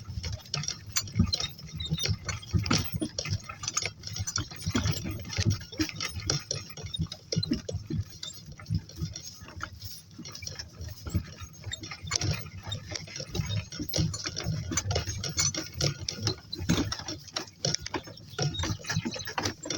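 Donkeys walking in harness: irregular clinking and rattling of the tack, with footfalls and low thuds.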